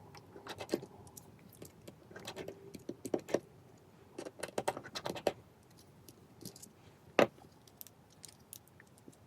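Light clicks, taps and scraping from small tools and phone parts being handled during an iPhone 5s repair, coming in short clusters with one sharper click a little after seven seconds.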